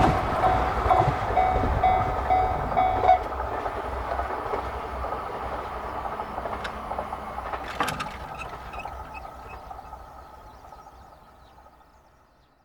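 JR Central KiHa 85 series diesel train running past and receding, its engine and running noise fading away to nothing near the end. A short repeating tone sounds about twice a second for the first three seconds, then stops.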